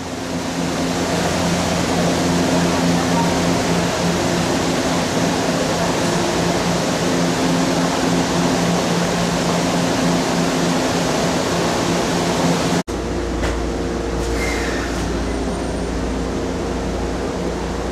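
A stationary Shinano Railway SR1-series electric train at a station platform, with a steady noisy hum and low tones from its running equipment. After a sudden cut about two-thirds of the way through, the steady low hum of the air conditioning and equipment is heard inside the carriage.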